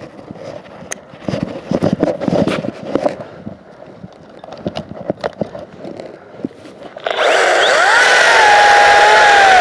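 Scattered knocks and scrapes, then about seven seconds in a Makita 18V cordless chainsaw starts abruptly and runs with a loud, steady electric whine that wavers slightly in pitch.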